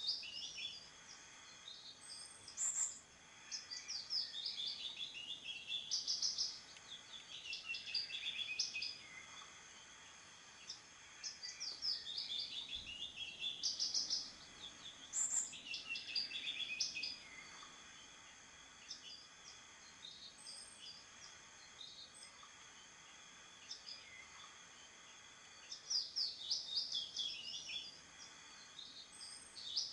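A songbird singing short warbled phrases that fall in pitch, repeated every few seconds, over a faint steady high-pitched background.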